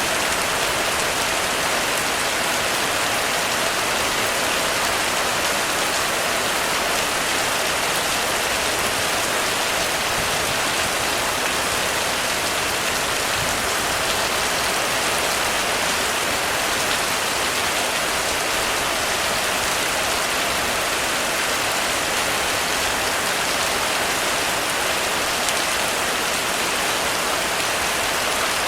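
Heavy rain falling steadily on a roof: a dense, even hiss of drops that holds constant throughout, with no thunder.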